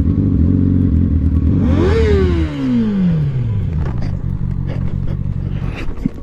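Motorcycle engine running steadily. About two seconds in, an engine note drops smoothly in pitch for about a second and a half, then settles into a lower steady hum.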